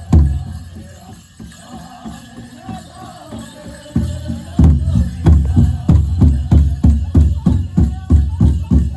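Powwow big drum and male singers performing a grass dance song. The drumming drops out for a few seconds while the singing carries on, then a steady beat of about two to three strikes a second resumes about four seconds in.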